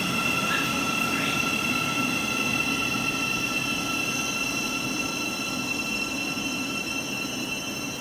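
Great Northern electric multiple unit moving slowly along the platform, its running rumble carrying several steady high-pitched tones and easing slightly in loudness toward the end.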